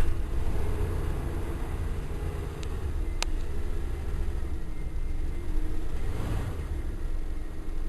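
1984 Dodge van engine idling steadily just after a cold start, with a low, even rumble. A short sharp click comes about three seconds in.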